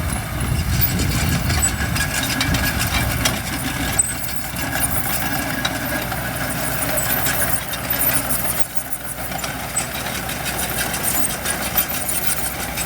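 Diesel engine of heavy site machinery (dump truck or bulldozer) running steadily, with scattered short clicks and clatter, easing off briefly past the middle.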